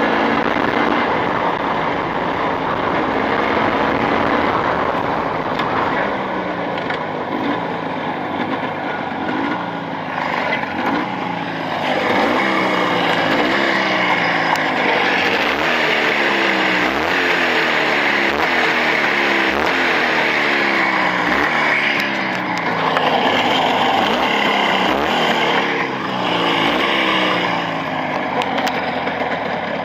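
Freshly rebuilt engine with new Chinese cylinders running under load while being run in. Its pitch climbs and drops again and again as it is driven, over a steady rushing noise.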